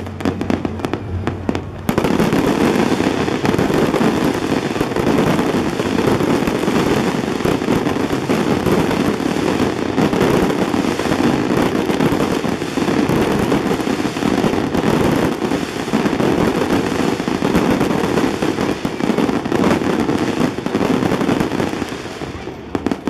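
Fireworks display: a dense barrage of rapid crackling and bangs that thickens sharply about two seconds in and runs on without a break, thinning and fading slightly near the end.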